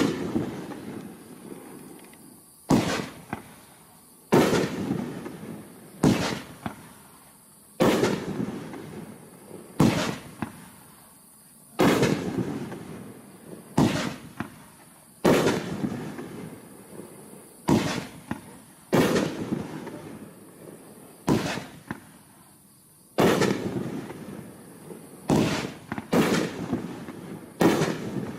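Consumer multi-shot aerial fireworks cake firing a steady series of about sixteen bangs, roughly one every one and a half to two seconds, each followed by a fading rumble and crackle.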